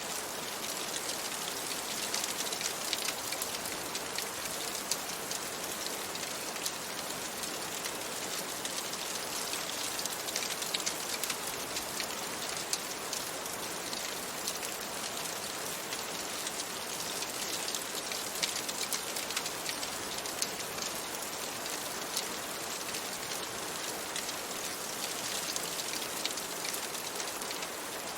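Steady rain on a window, a dense even hiss dotted with many fine drop ticks.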